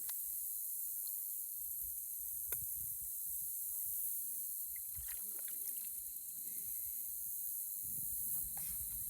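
Outdoor ambience by floodwater: a steady high hiss with an uneven low rumble, a few faint chirps, and one sharp click about two and a half seconds in.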